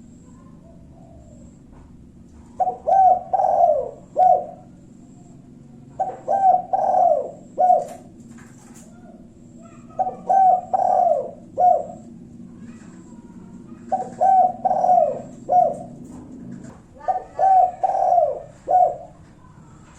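Spotted dove (tekukur) cooing, the kind of call used as a lure to provoke rival doves into answering. Five phrases of several coos each repeat about every four seconds, over a faint low hum that stops near the end.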